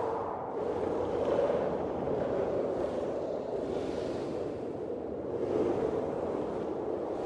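Blizzard wind blowing in gusts: a steady rushing that swells and eases several times.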